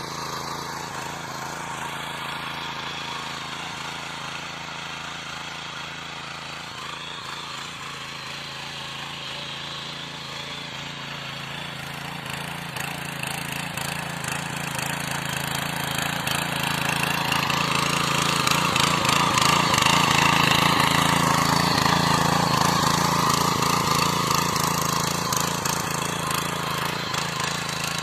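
Small engine of a power weeder (mini tiller) running steadily while tilling. It grows louder through the middle of the stretch, then eases off slightly toward the end.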